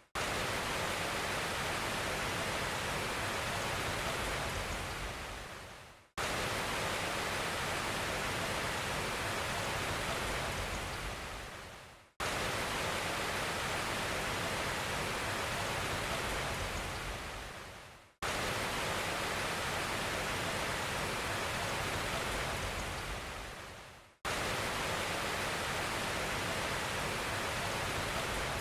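A steady rushing hiss, like static or rain, repeating in loops of about six seconds. Each loop fades out and then starts again abruptly.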